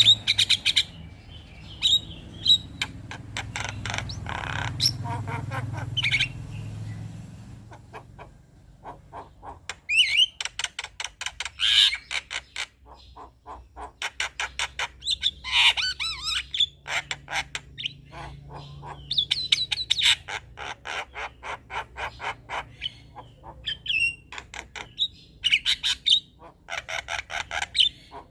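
Male Javan myna (jalak kebo) singing its chattering song: rapid runs of clicking notes mixed with harsh squawks and brighter whistled calls, in phrases a second or two long separated by short pauses.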